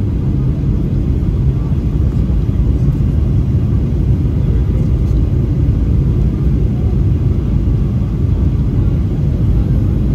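Steady low rumble of a Boeing 737-800's CFM56 engines and airflow heard inside the cabin on final approach.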